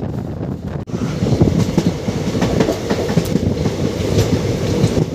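Passenger train coach running along the track: a steady rumble with scattered rail-joint clicks. It breaks off briefly about a second in and comes back louder.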